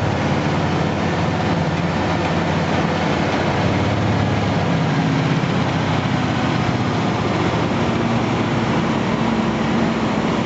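Scania timber truck's diesel engine and road noise heard from inside the cab while driving, a steady drone whose engine note steps up in pitch about two-thirds of the way in.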